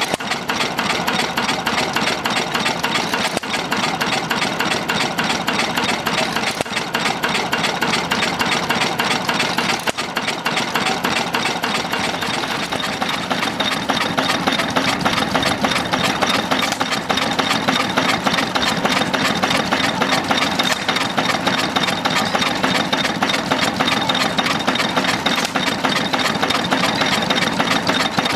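Ruston & Hornsby 1XHR single-cylinder horizontal open-crank diesel engine running steadily with a quick, even beat.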